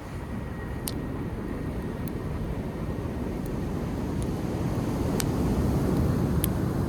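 Driftwood campfire crackling, with a sharp pop every second or so, over the low rush of sea waves that swells to its loudest near the end.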